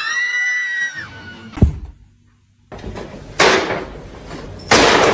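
A cat's drawn-out meow that rises and then holds for about a second, followed by a sharp knock. After a brief gap come two bursts of harsh hissing noise.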